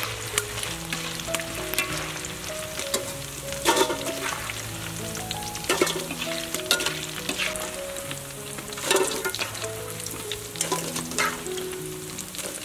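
Battered eggplant pieces deep-frying in hot oil, with steady crackling and sizzling and a few louder spatters. Soft background music plays under it.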